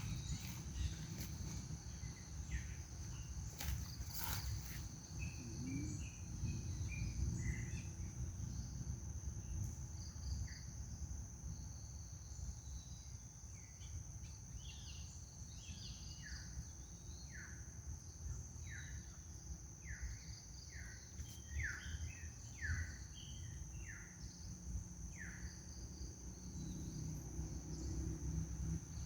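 Outdoor ambience of a steady, high-pitched insect drone over a low rumble. About halfway through, a run of short falling chirps comes roughly once a second.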